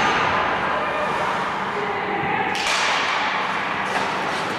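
Ice hockey rink game noise with voices in the background and a sharp knock about two and a half seconds in.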